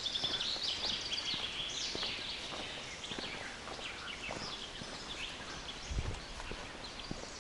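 Several birds singing, with a fast repeated trill loudest in the first two seconds and scattered chirps after, over light footsteps on a forest path; a soft low thump about six seconds in.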